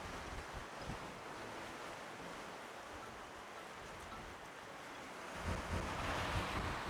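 Steady rush of wind and water, with the wind rumbling on the microphone, swelling louder for the last second or so.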